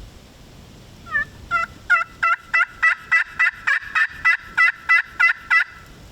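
A turkey call run in a long series of about fourteen loud, sharp yelps, about three a second, growing stronger over the first few notes. It is a strike call, meant to make a gobbler answer.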